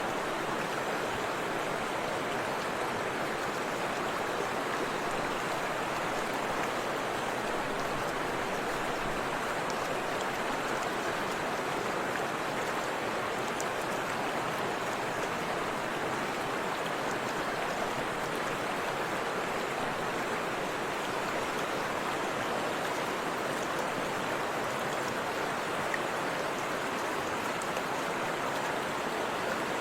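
Forest river water rushing and splashing steadily over rocks, a constant even roar with no change.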